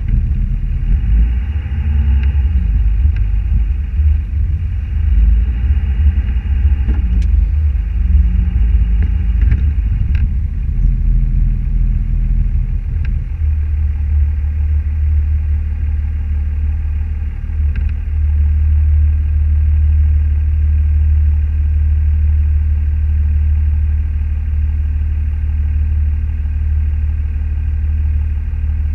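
Car driving, its engine and road noise heard as a steady low rumble, with a few faint ticks.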